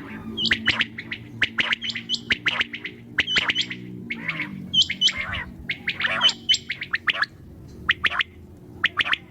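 Quail calling: a rapid, uneven series of short, sharp, high chirps, several calls overlapping. A low steady hum runs under them and fades out about four seconds in.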